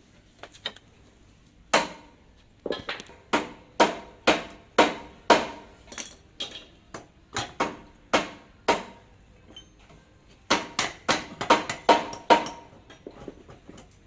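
Hammer blows on metal: a long, irregular run of sharp strikes, each with a short metallic ring. The strikes pause about nine seconds in, then resume in a quicker flurry.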